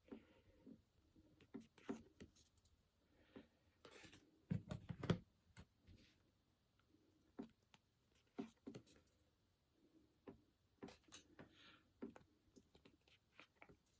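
Faint clicks and taps of Pokémon trading cards being handled and shuffled, with a louder cluster of knocks about four and a half seconds in.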